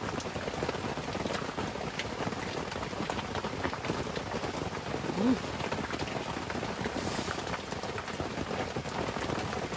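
Heavy rain falling steadily, a dense hiss dotted with the ticks of single drops. About five seconds in, a brief rising murmur of a voice is heard over it.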